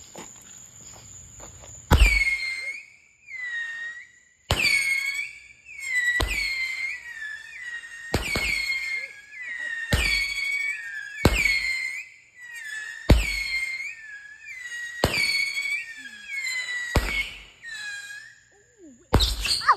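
Consumer firework cake firing a run of about ten shots, roughly one every two seconds, each a sharp bang followed by a whistle that dips in pitch and levels off.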